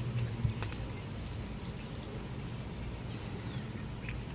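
Outdoor background sound: faint, short chirps of small birds over a steady low hum, with a few light clicks as the selfie-stick tripod is handled.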